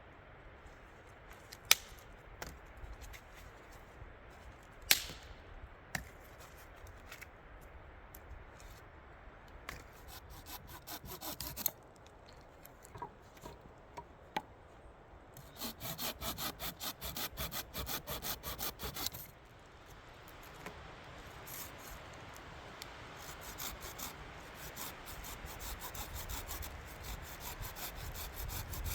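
Hand saw cutting wood in quick back-and-forth strokes, in several runs with short pauses between. Two sharp knocks come in the first few seconds.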